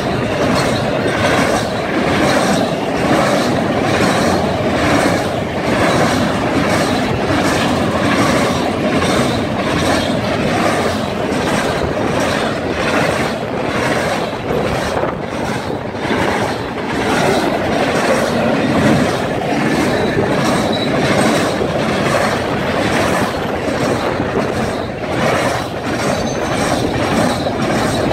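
Double-stack intermodal container well cars rolling past: a steady rumble of steel wheels on rail with a rhythmic clickety-clack as the wheel sets pass.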